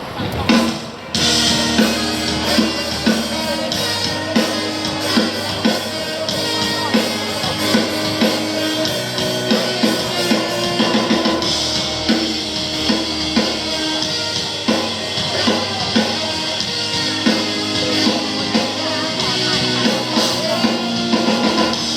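Live band playing through a concert PA during a sound check, a drum kit keeping a steady beat under sustained instrument notes.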